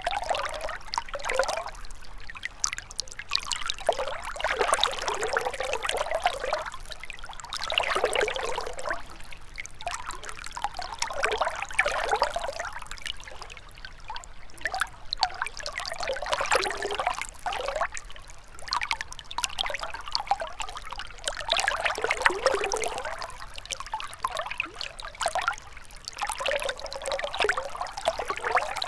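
Gentle river running: a continuous rush of water that swells and eases every couple of seconds, with little low rumble.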